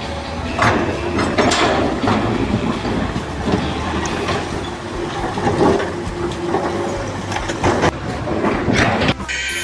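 Steady heavy mechanical rumble with irregular clanks and knocks throughout, like a large vehicle or machine running; it cuts off just before the end.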